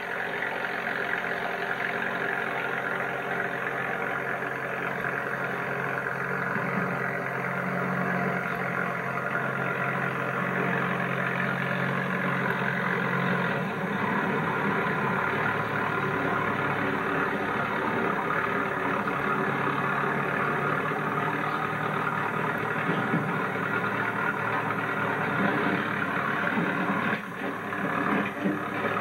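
Tractor engine running steadily while snowblowing; its low note shifts about halfway through, with a brief drop in loudness near the end.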